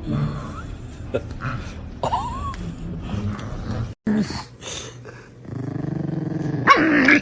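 A dog growling in low, rough rumbles, with a short high whine-like glide about two seconds in. The sound breaks off briefly at about four seconds, then a longer growl builds and is loudest near the end.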